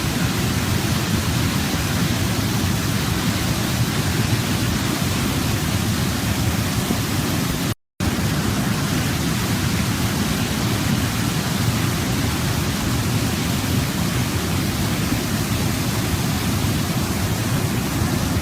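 Steady rushing of a waterfall, an even wash of falling water. It cuts out completely for a split second about eight seconds in.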